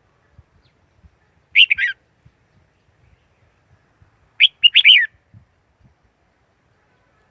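Red-whiskered bulbul singing two short, quick warbled phrases about three seconds apart, the second longer than the first.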